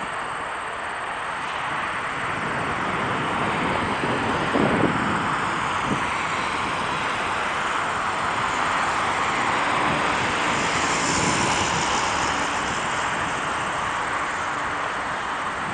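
Jet airliner engines rushing overhead. The noise builds to its loudest about two-thirds of the way through, then eases slightly.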